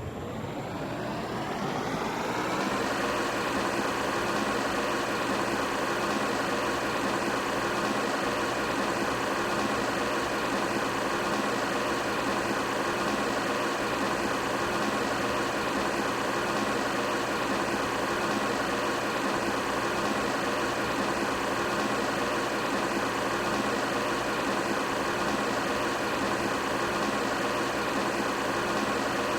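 Arge Max 160 W wall fan spinning up, its hum rising in pitch over the first two to three seconds. It then runs steadily at full speed with a constant whir of motor and blades.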